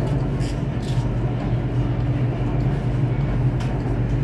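BTS SkyTrain car running along the elevated track, heard from inside the carriage: a steady low hum and rumble.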